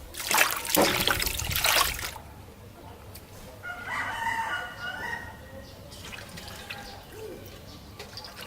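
Water splashing for about two seconds as beef liver is washed by hand, then a rooster crows once, about four seconds in.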